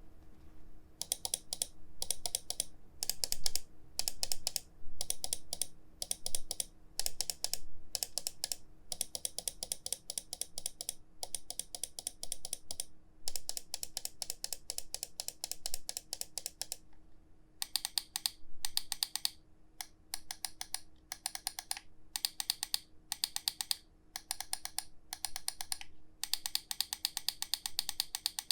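GITOPER G2 gaming mouse buttons clicked rapidly in runs of quick clicks with short pauses between. About two-thirds of the way through, the clicks change in character and sound a little thinner. A faint steady hum runs underneath.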